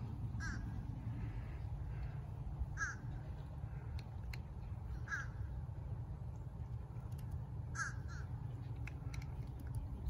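A bird's short, harsh calls, each one brief and dropping slightly in pitch, repeated every two to three seconds, with a quick double call near the end. A steady low rumble runs underneath.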